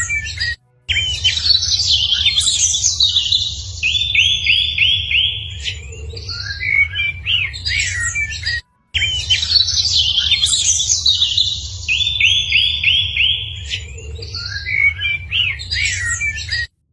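Several birds chirping and calling, with a quick run of about five rising whistled notes, over a steady low rumble. After a brief gap about halfway through, the same stretch of birdsong plays again as a loop, and it cuts off just before the end.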